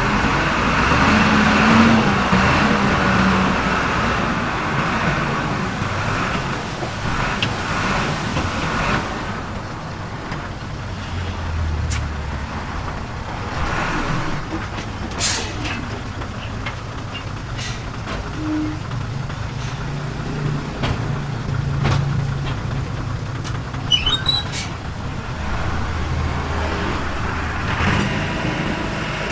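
Diesel engine of heavy earthmoving machinery running and working, its drone rising and falling, with a few sharp metallic knocks.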